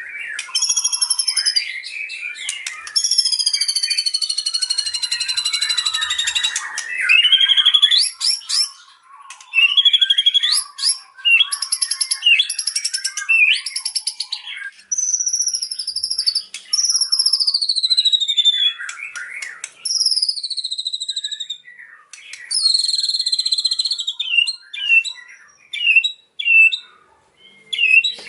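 White-rumped shama (murai batu) singing a long, varied song: clear falling whistles mixed with rapid trills and buzzy rattling phrases, with only brief pauses between them.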